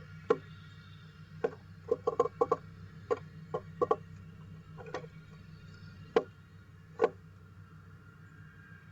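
Female downy woodpecker knocking and tapping on the wood inside a bird box: about a dozen sharp taps at uneven spacing, some in quick runs of two or three, over a steady low hum.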